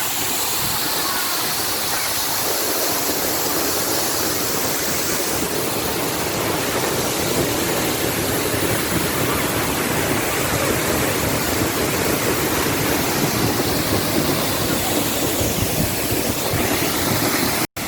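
Steady, dense rush of the Sendang Gile waterfall's falling water, with a split-second gap near the end.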